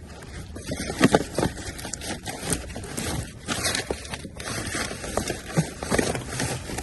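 Rummaging through dumpster contents by hand: irregular rustling, scraping and knocking of items being moved and picked over, with a sharp knock about a second in.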